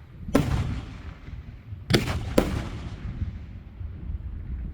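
Aerial fireworks shells bursting with three loud booms, the last two close together, each trailing off in a rolling rumble.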